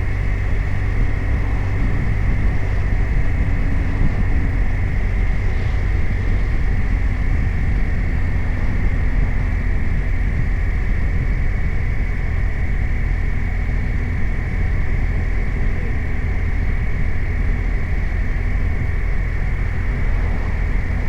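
BMW R 1250 RT motorcycle's boxer-twin engine running steadily while the bike is under way, with no sharp changes in pace.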